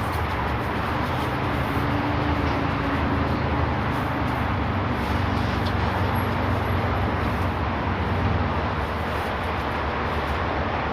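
Road traffic: the steady rumble of a motor vehicle's engine and tyres, swelling in the middle and easing off toward the end.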